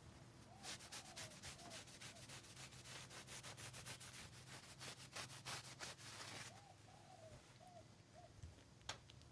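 Faint, rapid rubbing or scraping strokes, about five a second, that stop about six and a half seconds in, over a low steady hum.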